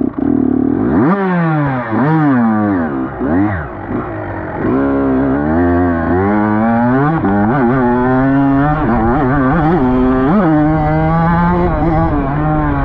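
Dirt bike engine revving and shifting up through the gears. Its pitch climbs and drops several times in the first few seconds, then settles into a steadier run with smaller rises.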